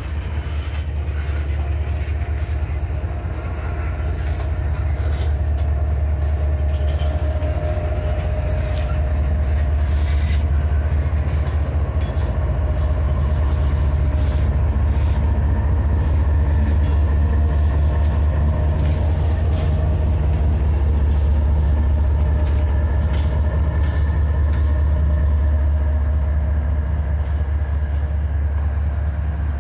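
Loaded tank-car freight train passing at close range: the steady low drone of a CSX diesel locomotive's engine, working as a distributed-power unit, swells as it goes by, over the rumble and scattered clicks of steel wheels on rail. The sound grows louder after a few seconds and eases off near the end.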